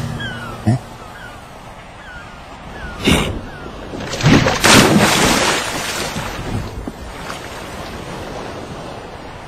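Cartoon water sound effects: a splash about three seconds in and a bigger one a little after four seconds, followed by a steady rush of waves that slowly fades.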